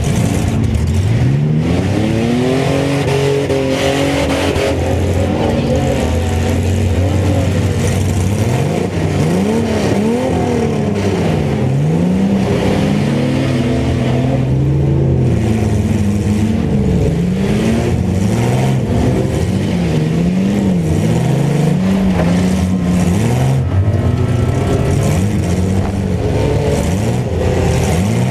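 Several compact pickup truck engines revving up and down at once, their pitches rising and falling out of step with one another, in a mini truck competition.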